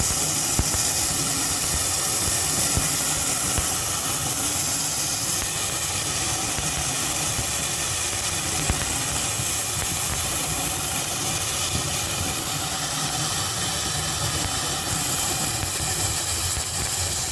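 Flex-shaft drain-cleaning machine running in a drain pipe: a steady hiss over a low motor rumble that keeps an even level throughout.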